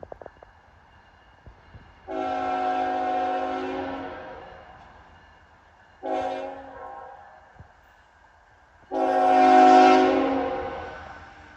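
Locomotive air horn sounding three blasts of a multi-note chord: a long one, a short one, then a long one, each fading away after it stops.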